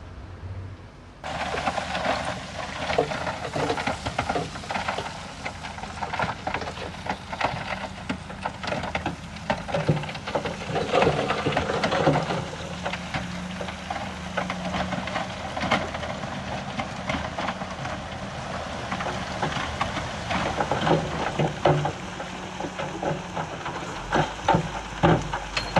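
Bulldozer engine running, with a dense crackling and clattering of stone and dirt over it. The sound starts abruptly about a second in.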